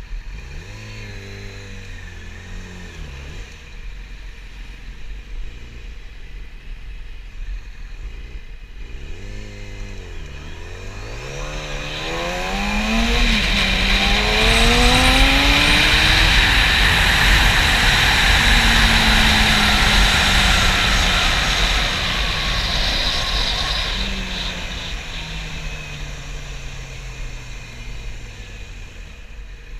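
Yamaha YZF-R6 inline-four engine accelerating through the gears, its pitch climbing in steps, while wind noise on the GoPro microphone builds to its loudest in the middle at speed. Near the end the engine pitch falls slowly as the bike slows.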